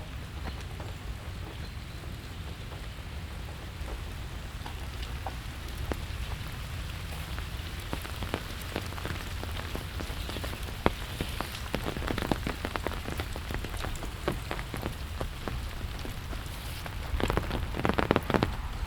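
Steady rain with individual heavy drops pattering on surfaces. The drops come more often in the second half, with a loud dense flurry of drips near the end.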